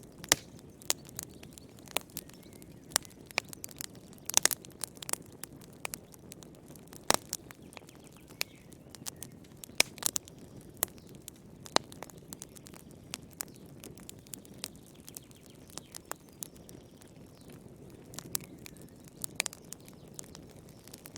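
Wood fire burning in a fireplace: irregular sharp crackles and pops, some in quick clusters, over a low steady hiss of the flames.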